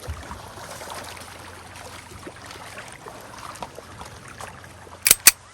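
A steady low hum under an even rushing noise with scattered faint clicks, then two sharp clicks close together near the end.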